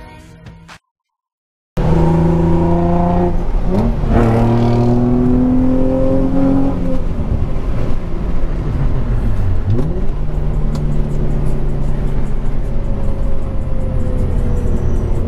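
Infiniti G35's VQ35 V6 engine revving hard, its pitch climbing and dropping again and again as the car is driven. It starts abruptly about two seconds in, after a brief silence.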